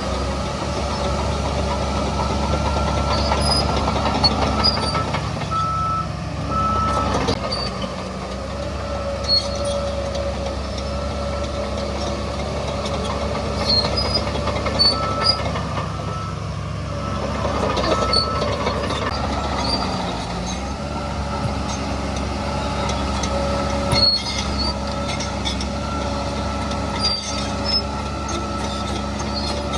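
Diesel engines of earthmoving machinery (bulldozer and dump trucks) running steadily, with a high reversing-alarm tone over them and a few sharp metallic clanks.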